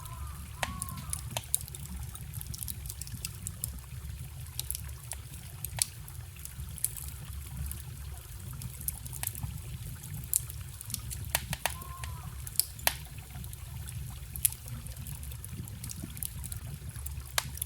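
Wood fire crackling with sharp, irregular pops over the steady trickle of a forest stream. A couple of faint short chirps come at the start and again about twelve seconds in.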